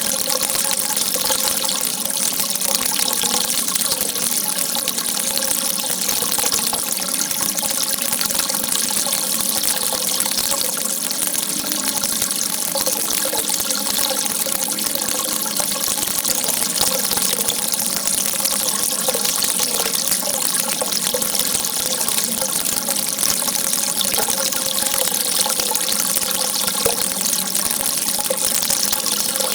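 Water gushing in a steady, unbroken stream, its hiss even throughout with no distinct splashes or pauses.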